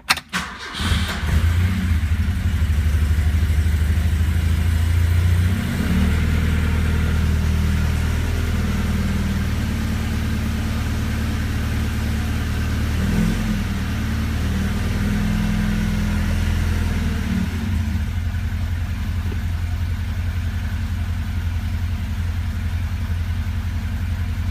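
A 1974 Alfa Romeo Spider's fuel-injected twin-cam four-cylinder engine on a cold start. It catches within about a second of cranking and runs at a fast, wavering idle. About 18 seconds in it settles to a lower, steadier idle, running cleanly after an injection and timing tune-up.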